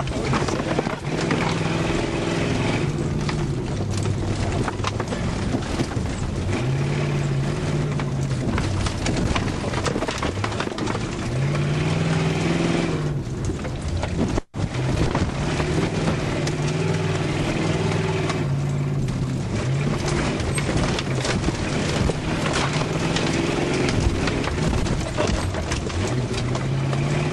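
1972 Cadillac's V8 engine revving up and easing off again and again as the car is driven hard over a rough dirt track, heard from inside the cabin over a steady rattle and clatter of the body and suspension. The sound cuts out for an instant about halfway.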